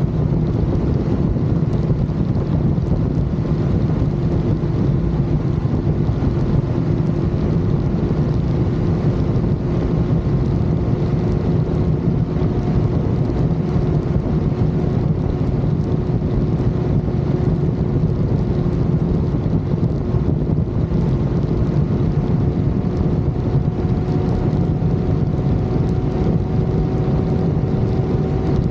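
Motorcycle cruising at steady highway speed: heavy wind rush and road noise over a steady engine hum.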